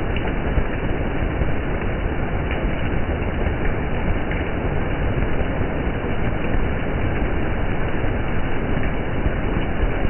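Water splashing on a rain-wet street: a steady rushing noise with a heavy low rumble.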